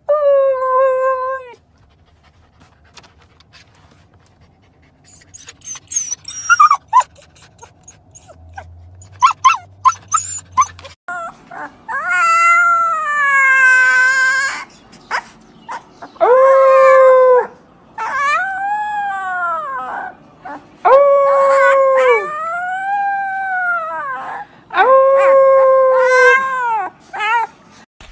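A dog howls briefly at the start. After some faint short yips and clicks, a husky puppy howls six times in long, loud howls, each bending up and then down in pitch.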